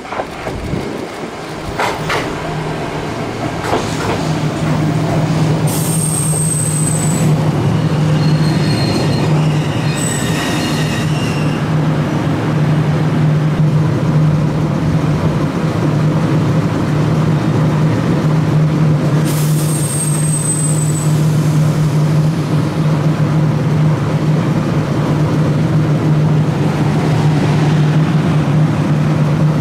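Choshi Electric Railway train running slowly past directly below, getting louder over the first few seconds, with a steady low hum throughout. Its wheels squeal briefly on the rails twice, about six and twenty seconds in.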